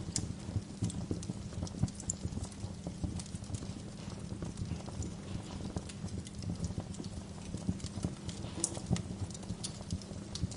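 Wood bonfire crackling: irregular sharp pops and snaps of burning logs over a low, steady rumble of the flames.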